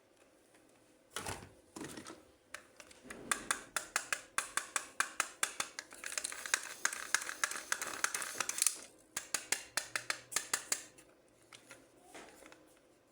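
Toy packaging being handled and opened: a run of sharp clicks, about four a second, with denser crinkling of plastic in the middle, then a few fainter clicks near the end.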